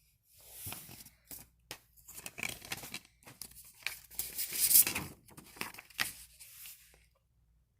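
A plastic DVD case being handled close to the microphone: irregular rustling and scraping with a few sharp clicks, stopping a little before the end.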